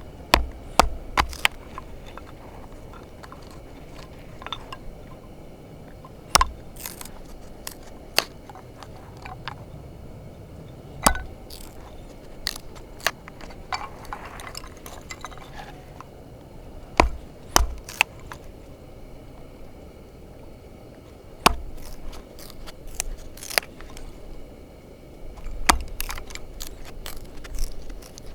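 Cookware and utensils being handled: irregular sharp clinks and knocks, a few heavier with a dull thump, and a stretch of softer scraping about halfway through.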